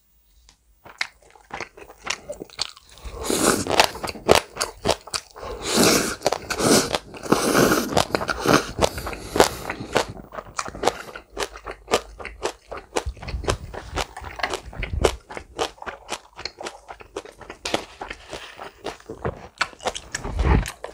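Close-miked chewing and crunching of a mouthful of green onion kimchi, with many wet mouth clicks. It starts about a second in and is busiest over the next several seconds, then carries on more sparsely.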